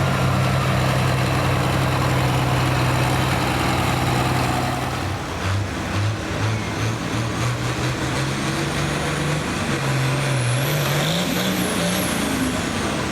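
Heavy truck engine running at a steady pitch, then pulsing unevenly for a few seconds, then rising in pitch as it revs up near the end.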